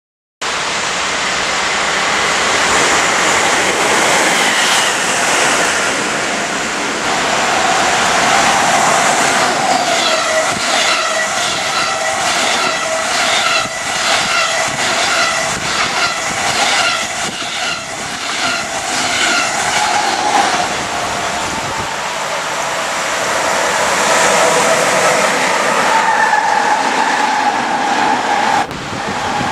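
Electric train passing at speed, with a steady whine and a rhythmic clickety-clack of wheels over rail joints in the middle of the pass.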